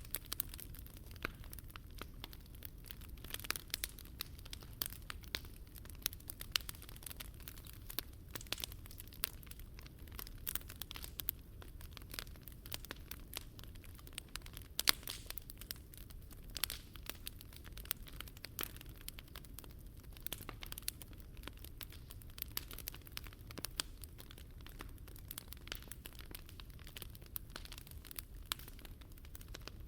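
Wood fire crackling, with many irregular sharp pops over a low steady rumble.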